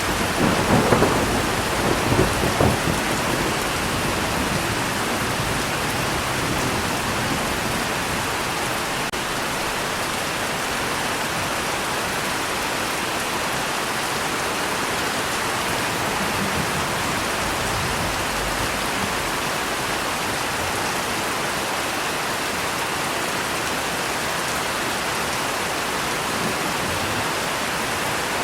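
Steady rain falling, with a roll of thunder in the first few seconds and fainter low rumbles of thunder later on.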